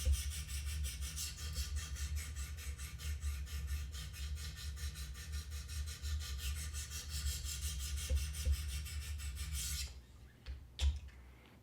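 Sharpening stones of a Wicked Edge guided sharpener rubbing back and forth along a knife's hard CPM-M4 steel edge at 200 grit, a fast even run of gritty strokes. The stroking stops about ten seconds in, followed by a couple of light knocks.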